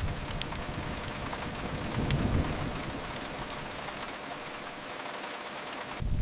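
Steady rain hiss with a few sharp crackles from a wood fire. A low rumble swells about two seconds in, fades, and comes back abruptly near the end.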